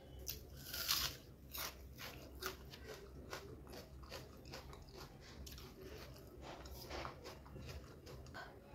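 Close-up mouth sounds of a person biting into and chewing a mouthful of chicken biryani with raw onion: a run of crisp crunches, loudest about a second in, followed by steady chewing.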